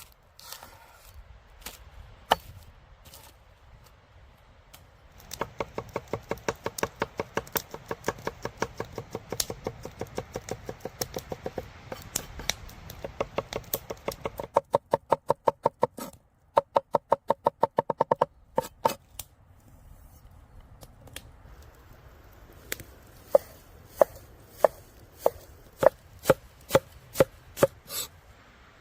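A knife chopping food on a cutting board in quick, even runs of about six strokes a second, then a handful of slower, harder single chops near the end.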